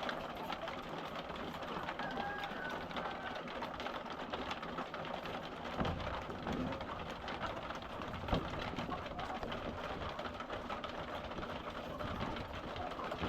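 A flock of laying hens making soft, low clucking and cooing calls while feeding, over a dense patter of fine ticks. Two dull thumps come about six and eight seconds in.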